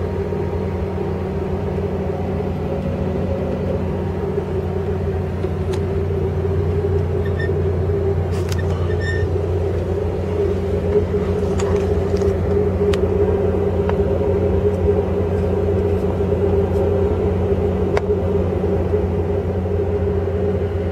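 Steady low rumble and hum of a moving Amtrak passenger train heard from inside the car, with a few faint clicks and rattles in the middle.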